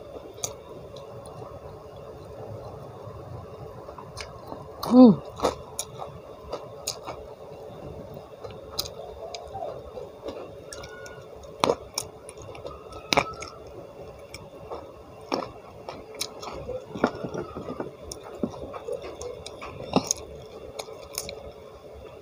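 Close-up chewing and wet mouth sounds of someone eating by hand, with scattered sharp clicks and crunches as raw pea eggplants are bitten. A short falling voiced "mm" about five seconds in is the loudest sound, over a faint steady hum.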